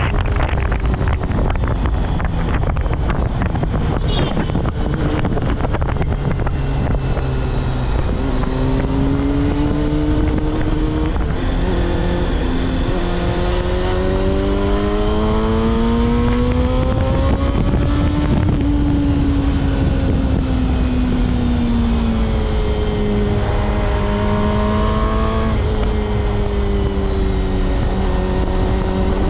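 Honda CBR250RR MC22's inline-four engine running at speed, its pitch rising and falling gently with the throttle, over a heavy rush of wind on the microphone.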